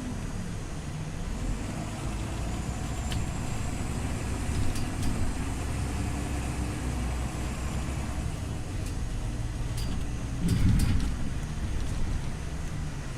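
Scania OmniLink CL94UB city bus running, a steady low engine drone whose pitch rises and falls gently, with a few sharp clicks and a louder rumble about ten and a half seconds in.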